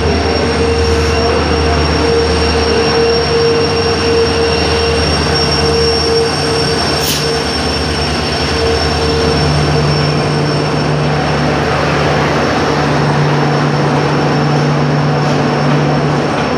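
WDP4D diesel-electric locomotive, with its two-stroke EMD V16 engine, running past close by as the arriving express slows, followed by its coaches rolling past. A steady squeal from the wheels and brakes fades out about nine seconds in, and there is one sharp clank about seven seconds in.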